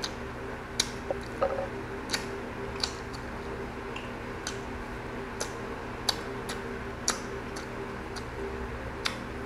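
Close-miked chewing of crisp unripe green mango: sharp, irregular mouth clicks and crunches over a steady low hum.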